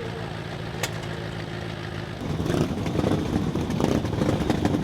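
Motorcycle engine running. About two seconds in, a louder, rougher engine sound with a rapid beat comes in and holds.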